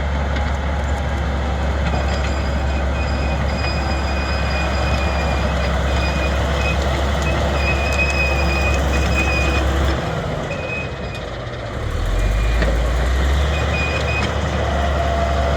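Crawler bulldozer's engine running steadily under load, with an intermittent high-pitched squeal from the track that the owner traces to the front track idler. The engine note drops about ten seconds in and comes back up about two seconds later.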